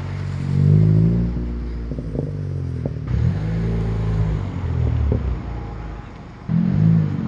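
Car engine revving, its pitch rising and falling several times, with a few short pops or knocks between the revs.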